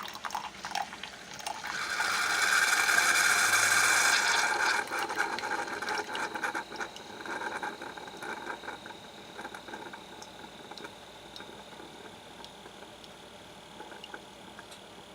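Keurig K425 coffee maker at the end of a brew: a loud hissing rush from about two to five seconds in, then coffee trickling and dripping from the K-Cup into the cup, fading as the brew finishes.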